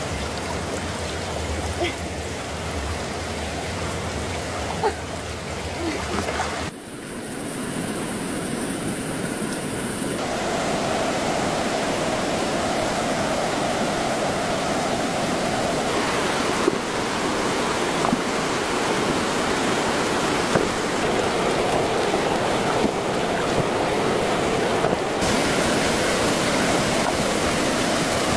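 Steady rushing of water, like surf or a stream, an even hiss-like wash with a few faint ticks. The texture changes abruptly about seven seconds in and again about ten seconds in.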